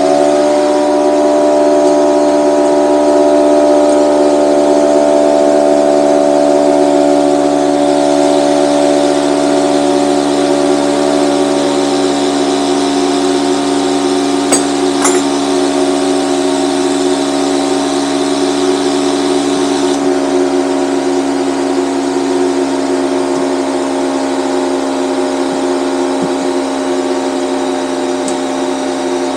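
Bostitch 6-gallon air compressor's motor and pump running steadily, building air pressure in the tank on a test run after repair. Its pitch sags slightly and it gets a little quieter over time, with two clicks about halfway through.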